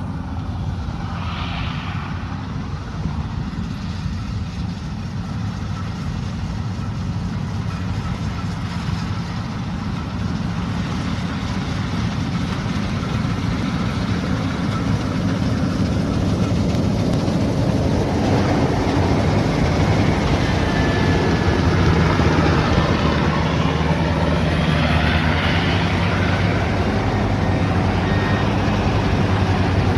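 Engine of a rice harvesting machine running steadily, getting louder from about ten seconds in, with more rushing machine noise in the second half.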